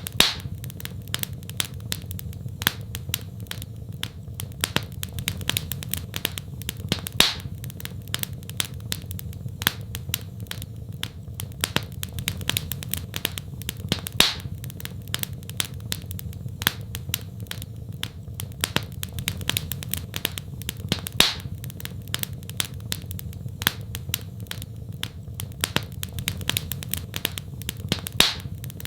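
Wood fire in a fireplace crackling: a dense run of small sharp snaps over a steady low rumble of burning, with a louder pop about every seven seconds.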